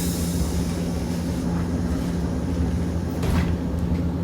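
Hiroshima Electric Railway 650-series streetcar heard from inside, with a steady low hum over a rumble. A single sharp click comes about three seconds in.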